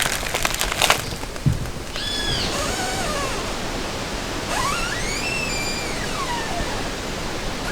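Tree trunk creaking and squeaking as it sways: a rustle in the first second, then two drawn-out squeals, a short one about two seconds in that falls in pitch and a longer one a couple of seconds later that rises and then falls.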